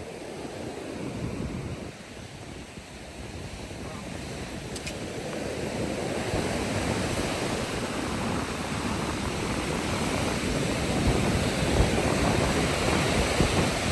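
Ocean surf rushing and washing up the shore, growing louder over the first several seconds and then steady.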